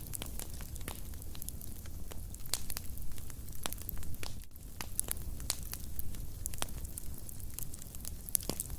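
Wood fire in a fireplace burning steadily, with irregular sharp crackles and pops over a low rumble of flames.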